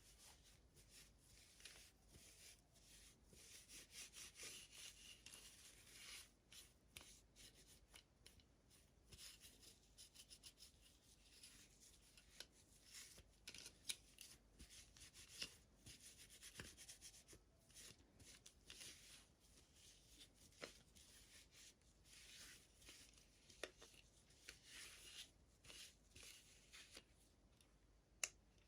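Faint rubbing and rustling of packaging and small plastic toy parts being handled during an unboxing, with scattered light clicks and taps.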